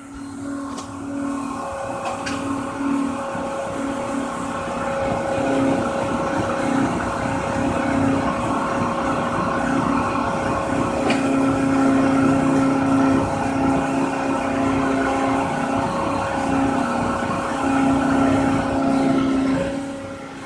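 A CNC machine's motors running steadily with a constant whine made of several steady tones over a noisy hum.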